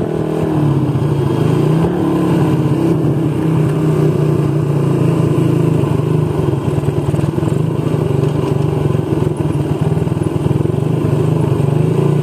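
Motorcycle engine running steadily while riding. Its pitch dips about half a second in and climbs back about two seconds in.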